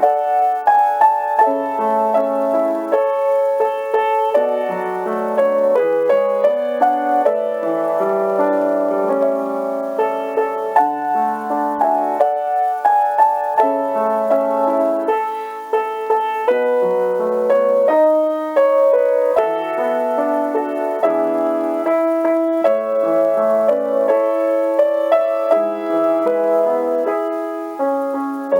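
Solo piano playing an elegy: a continuous flow of struck notes and overlapping chords.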